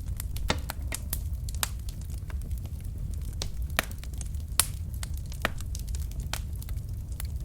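Wood logs burning in a fireplace: irregular sharp crackles and pops, a few louder than the rest, over a steady low rumble of the fire.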